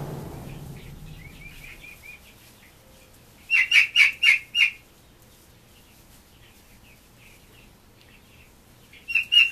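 Young turkeys peeping: a few soft chirps, then a quick run of five or six sharp high peeps about three and a half seconds in, and another run of peeps near the end.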